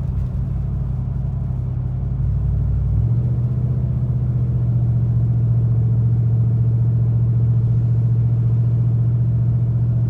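Chevy Silverado 5.3 V8 through true dual exhaust with no mufflers or resonators, cruising, then the transmission downshifts going up a hill about three seconds in: the exhaust drone jumps up in pitch and gets louder, then holds a steady rumble under 2,000 rpm.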